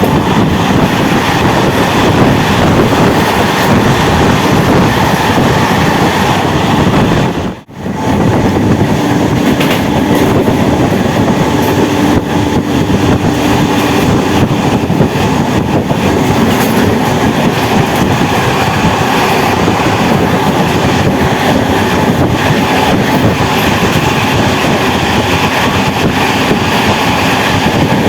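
MEMU electric multiple-unit train running along the line, heard from on board: a loud, steady rumble of wheels on rail with some clickety-clack. The sound drops out sharply for a moment about seven and a half seconds in.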